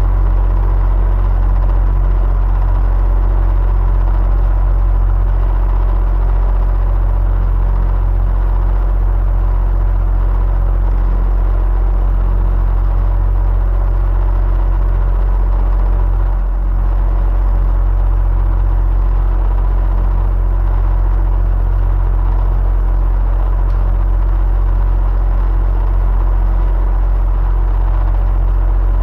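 Electric fan running steadily: an even low hum with a faint steady whine on top, dipping slightly once just past the middle.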